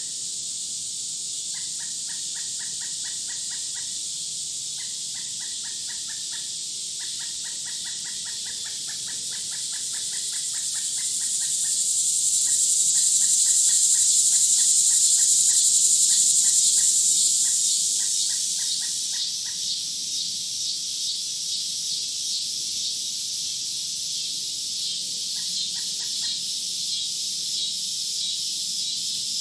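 A woodland chorus of insects making a steady high buzz that swells for a few seconds in the middle, then turns into fast, even pulsing. Over it a bird gives runs of rapid chattering calls, several in the first half and one more near the end.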